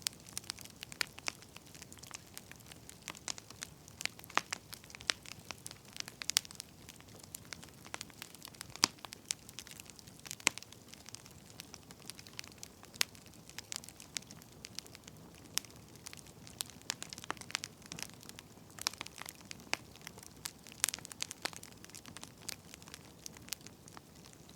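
Wood fire crackling: irregular sharp pops and snaps, several a second, over a soft hiss of burning logs.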